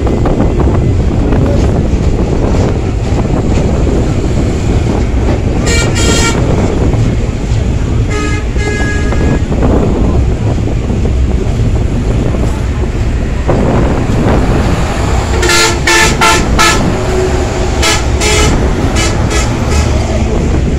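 Steady loud low rumble of a moving passenger train. Short vehicle horn toots sound about six and eight seconds in, then a string of quick honks in the last third.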